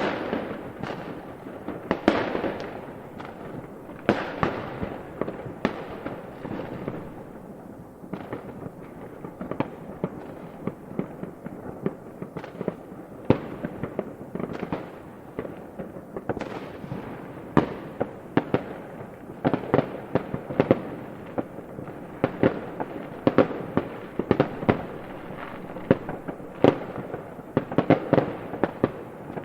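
Fireworks going off in quick, irregular succession: sharp bangs of shells bursting with crackling and rumbling between them, coming thicker and faster near the end.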